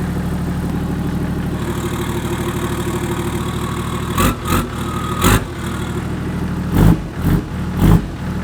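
Toyota Land Cruiser 80's 1HD-FT 4.2-litre straight-six turbo diesel running at idle through a 3-inch exhaust under test. In the second half it is blipped about six times in short, loud bursts.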